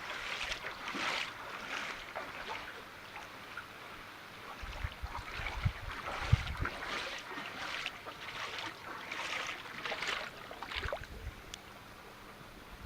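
Ankle-deep floodwater splashing and sloshing in irregular bursts, with a few low thumps around the middle.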